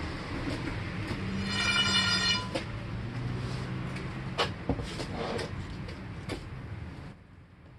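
Workshop handling noise: a low hum with scattered clicks and knocks, and a brief squeal about a second and a half in. The hum drops away about seven seconds in.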